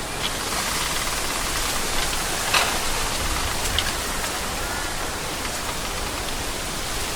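Gentle wind blowing through a stand of bamboo: a steady rustling hiss of the leaves, with a few brief crackles as stems and leaves knock together.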